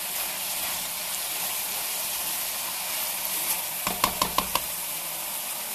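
Chicken cubes sizzling in oil in a non-stick wok, stirred with a silicone spatula. About four seconds in there is a quick run of about five ringing knocks.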